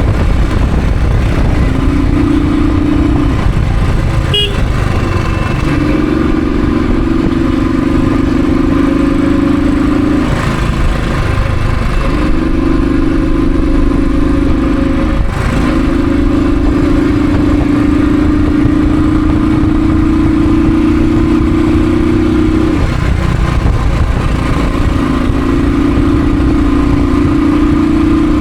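Royal Enfield Thunderbird's single-cylinder engine running on the move, over a steady low wind and road rumble. The engine note holds steady for several seconds at a time and drops away briefly about four times, as the throttle is eased or a gear is changed.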